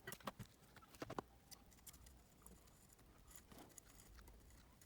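Near silence with a few faint clicks and ticks, mostly in the first second, from small parts or tools being handled.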